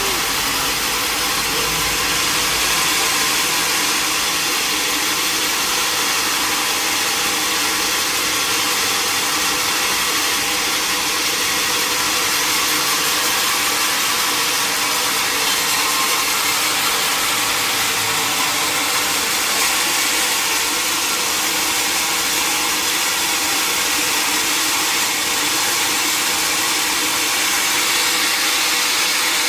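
Sawmill machinery running steadily: a continuous loud, even whirring noise with a faint steady hum underneath and no breaks.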